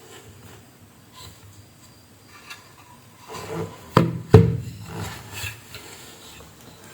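Objects being handled on a workbench: light rubbing and shuffling, with two sharp knocks about four seconds in, a third of a second apart.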